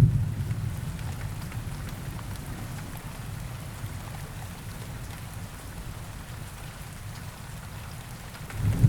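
Steady rain falling, with a low rumble of thunder dying away over the first few seconds and a new roll of thunder swelling up near the end.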